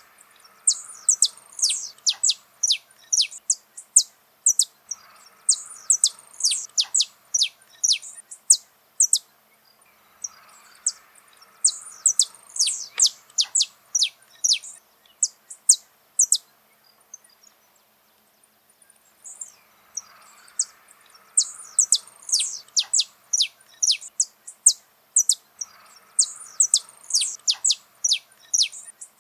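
Saffron finch singing: bouts of rapid, sharp, high notes, each dropping quickly in pitch, in five phrases of about four to six seconds with short pauses between them.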